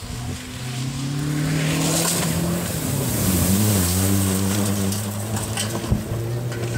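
Rally car engine accelerating hard through a shallow water crossing, its pitch climbing, dropping once about halfway, then holding steady, with the hiss of water spray.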